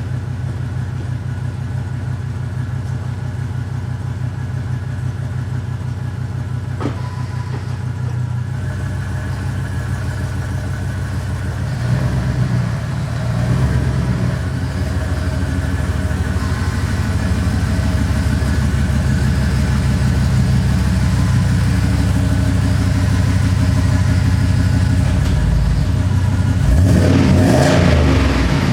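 Pickup truck engine running steadily, its note shifting about twelve seconds in and climbing near the end before cutting off suddenly.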